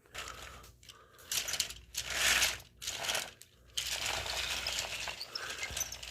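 Toy railway trucks clinking and rattling in several short bursts as they are pushed along.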